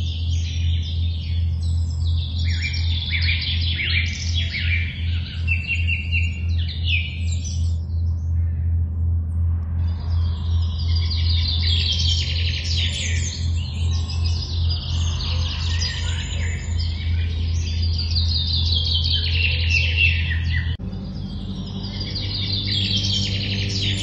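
Several songbirds singing, rapid high trills and chirps overlapping, with a brief lull about a third of the way through. Beneath them a steady low drone runs throughout and changes abruptly to a different low chord near the end.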